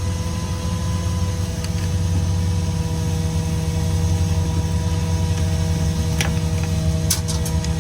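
A steady mechanical drone from a running machine, a deep hum with several even higher tones held throughout. A few light sharp clicks come near the end.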